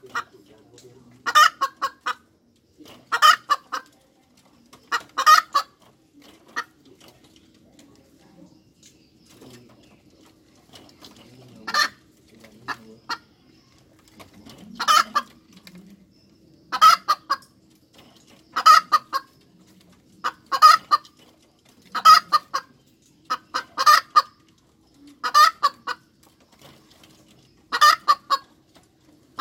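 Hen cackling: short bursts of rapid clucks repeating about every two seconds, with a pause of several seconds after the first few bursts.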